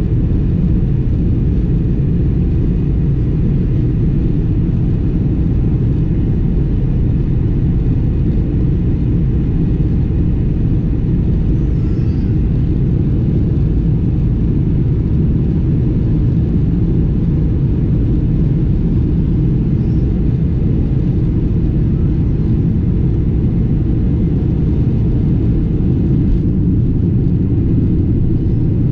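Boeing 747-400 jet engines and airflow heard from inside the passenger cabin: a loud, steady, deep rumble.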